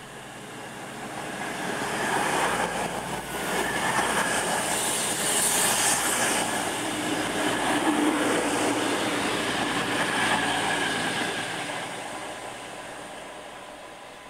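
Virgin Class 221 Voyager diesel-electric train passing slowly at close range, its underfloor diesel engines and wheels on the rails growing louder, staying loud for several seconds, then fading as it draws away.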